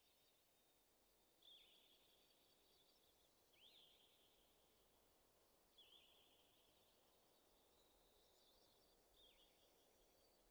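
Near silence, with a faint bird singing a short high phrase four times, a quick pitch glide running into a trill, every two to four seconds.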